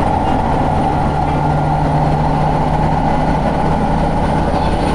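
Kawasemi Yamasemi diesel railcar running, heard from inside the car: a steady rumble of wheels and engine. A low hum rises over it for a few seconds in the middle.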